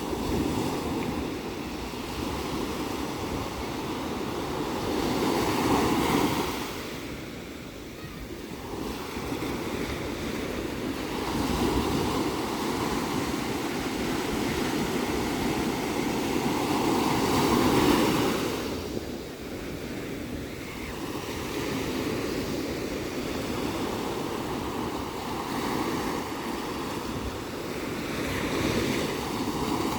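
Ocean surf: waves breaking and washing in, swelling and easing every several seconds, with some wind rumble on the microphone.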